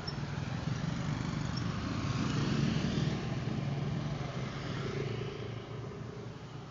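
A road vehicle's engine running, growing louder to a peak about two to three seconds in and then fading.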